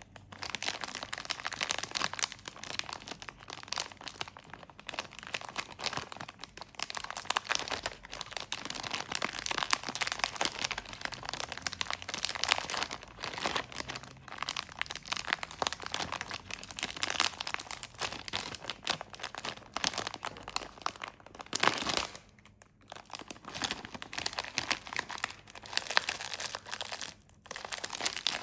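Plastic snack wrappers crinkling and tearing as packages are opened and handled, in near-continuous crackly bursts with two short pauses.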